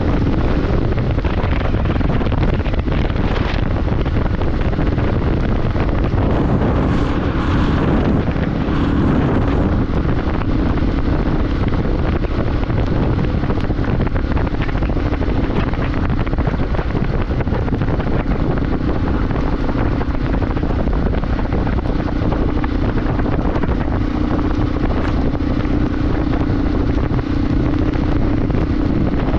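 Wind rushing over the microphone on a moving motorbike, with a steady engine drone underneath.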